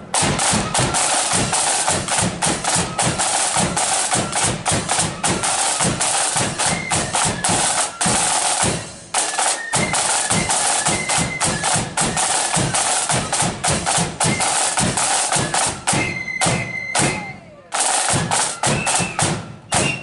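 Marching flute band playing, its snare and bass drums loudest in rapid strokes with flutes faintly above, a brief break about nine seconds in and a drum roll near the end. The music stops abruptly at the very end.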